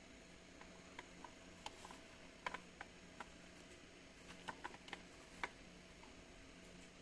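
Light clicks and taps over a faint steady hiss and hum, about a dozen of them at irregular intervals, the sharpest about two and a half and five and a half seconds in.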